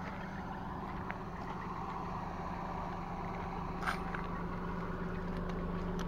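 A small car's engine idling with a steady low hum, and one short sharp click about four seconds in.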